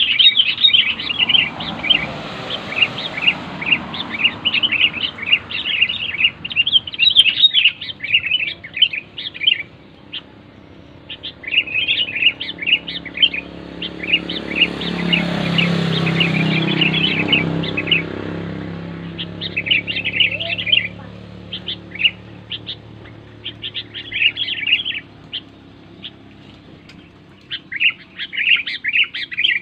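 Sooty-headed bulbul (kutilang) calls: loud, rapid chirping in bouts broken by a few short pauses. Midway a low rushing sound swells and fades under the calls.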